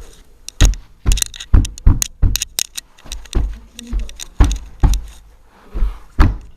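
A dozen or so irregular thumps and knocks as the sofa bed's back section is pushed and knocked into its locking brackets, with a light rattle of the fittings.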